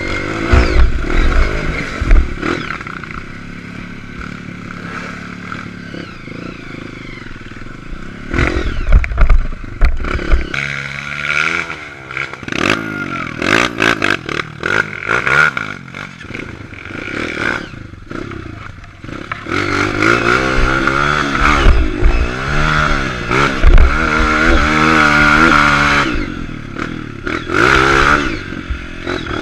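Dirt-bike engine, a Honda CRF230F's single-cylinder four-stroke, revving up and down over and over, its pitch climbing and falling with the throttle. Heavy low rumbling thuds come and go at times.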